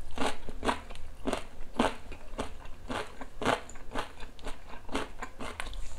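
Crisp crunching of smashed cucumber pickle being chewed close to a clip-on microphone, about two crunches a second.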